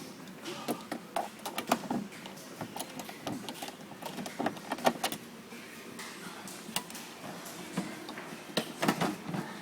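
Irregular sharp metal clicks and knocks of pliers working the height-adjustment nut in a refrigerator door hinge, with clusters of clicks about a second in, around the middle and near the end.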